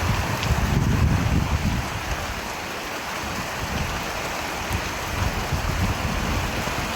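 Steady heavy rain hissing. A low rumble under it dies away about two seconds in.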